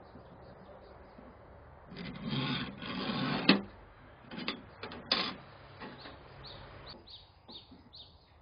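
A metal file rasping in two strokes on the steel of an ammo can, ending in a sharp click, followed by a few shorter scrapes and a click. Small birds chirp repeatedly.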